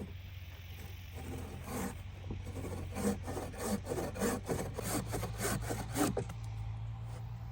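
Hand tool rubbing and sawing on wood in repeated back-and-forth strokes, about two a second, for about five seconds, then stopping. A steady low engine hum runs underneath.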